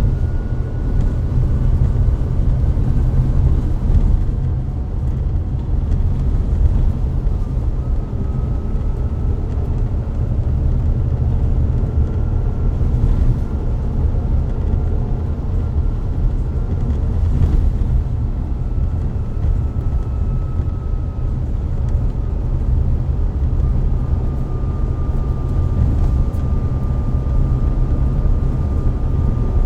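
Volvo B9TL double-decker bus running, its Volvo D9B diesel engine and Voith DIWA gearbox giving a heavy, steady low rumble. A faint thin whine drifts slowly up and down in pitch above it.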